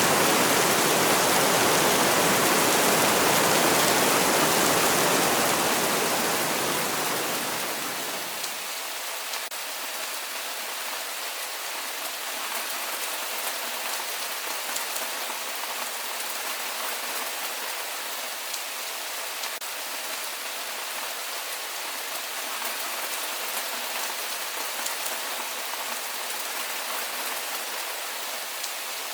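Steady rain: a dense, deep full-range hiss that fades about eight seconds in to a lighter, thinner patter with scattered drop ticks.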